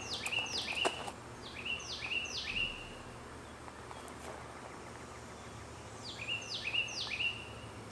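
A songbird singing three short phrases, each of about three loud whistled notes that drop sharply in pitch and then level off. The phrases fall at the start, a couple of seconds in, and again near the end, over a steady low background noise. A few sharp clicks sound near the start.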